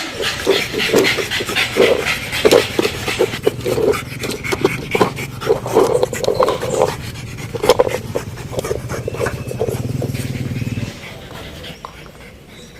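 Pug dog making a rapid run of short, breathy panting and snorting sounds, several a second. The sounds stop about eleven seconds in.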